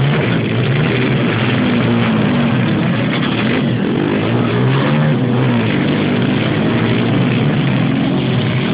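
Motocross motorcycle engines revving, their pitch rising and falling again and again as the bikes run and shift.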